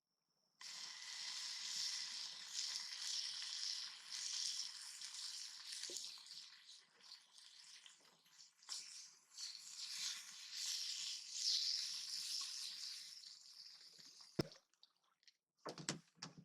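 Steady sizzle of fish frying in a pan, cutting in abruptly and ending with a sharp knock near the end, followed by a few quieter knocks.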